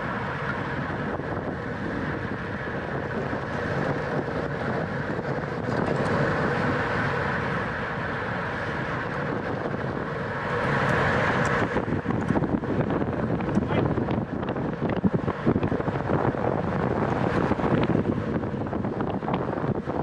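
Wind rushing over the microphone during a bicycle race, a continuous noisy rush. About halfway through it turns rougher and louder, with gusty buffeting and crackles.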